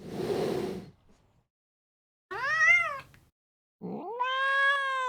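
A domestic cat meowing: a short breathy noise first, then one short meow, then a long drawn-out meow that rises and slowly falls.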